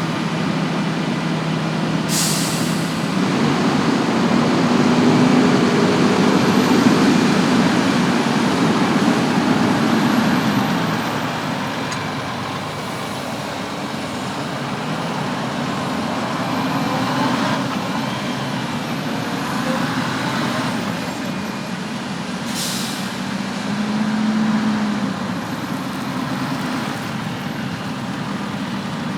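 Heavy diesel harvest machinery running and moving, with engine pitch rising and falling and the noise loudest in the first third. Two short sharp air-brake hisses, about two seconds in and again some twenty seconds later.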